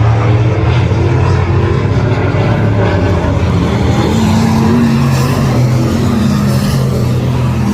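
Race car engines running on a speedway track: a loud, steady engine drone whose pitch rises and falls slightly.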